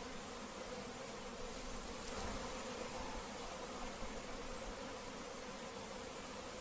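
Honeybee swarm buzzing: many bees in flight making a steady hum, stirred up after being shaken from their branch into a hive box.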